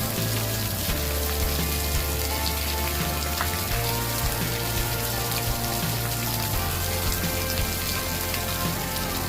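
Campfire crackling and hissing, a steady dense patter of small pops. Under it a low steady hum shifts in pitch at about a second in, near four seconds and again past six seconds.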